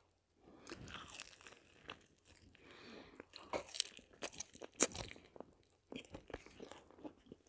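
Close-miked eating: biting into and chewing a soft fried zucchini fritter, heard as a run of small irregular clicks and mouth smacks, busiest about halfway through.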